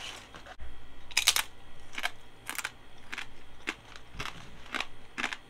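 Crunching of crispy dried bison meat crisps being chewed, a run of short sharp crunches about every half second to a second.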